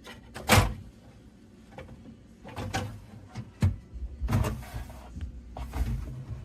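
Refrigerator doors and pull-out drawers being opened and shut: about five knocks and sliding sounds, the loudest about half a second in.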